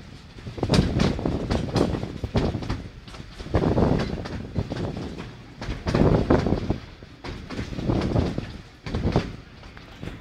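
Narrow-gauge steam train running along the line, heard from an open carriage: wheels clattering over the rail joints, with the noise swelling and easing about every two seconds.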